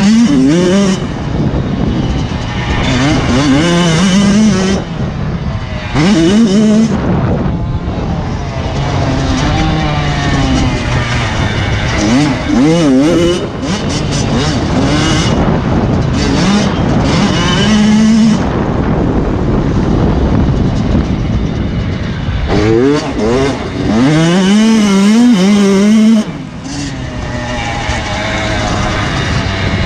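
Motocross bikes riding on a track, their engines revving up and falling back again and again, at times several bikes at once.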